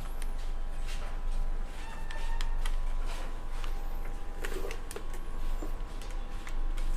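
Scattered light clicks and taps of table-fan parts being handled and fitted together by hand, over a steady low hum.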